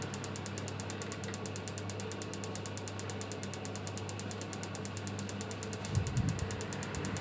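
Laundry tumble dryer running: a steady motor hum with a rapid, even mechanical ticking, and a few low knocks about six seconds in.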